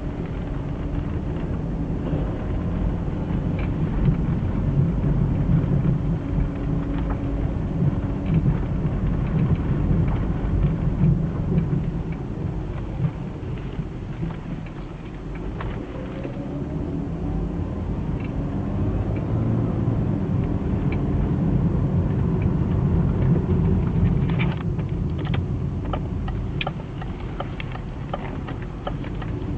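BMW E36 320i automatic driving with road and drivetrain rumble and a faint whine that rises in pitch about halfway through; the owner traced the whine to a worn driveshaft centre bearing. A run of clicks comes near the end.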